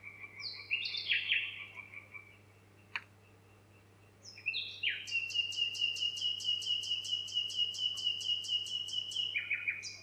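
A songbird singing. A short phrase of falling notes comes in the first two seconds, then after a pause a long rapid trill of about four notes a second over a held whistle runs from about four and a half seconds in until near the end. A single sharp click sounds about three seconds in.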